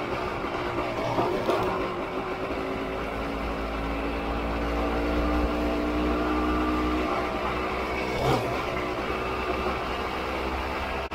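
Honda CRM250's two-stroke single-cylinder engine running under way, its note holding steady through the middle and shifting about eight seconds in, with wind rumbling on the helmet-cam microphone.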